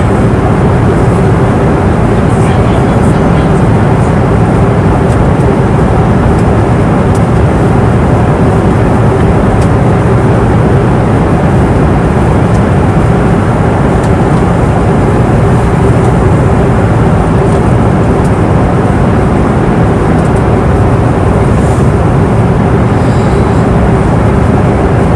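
Steady cabin noise of a passenger airplane in flight: an even, dense rush of engine and airflow noise, strongest in the low range, with a steady hum running through it.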